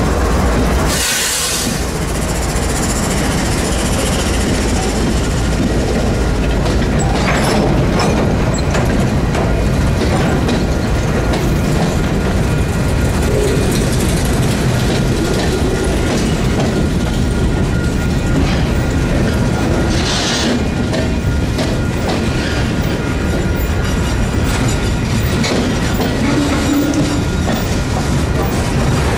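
Norfolk Southern freight train rolling past close by: a steady rumble of steel wheels on rail, with a running series of clicks as the wheels cross rail joints. Two short hissy bursts come about a second in and about twenty seconds in.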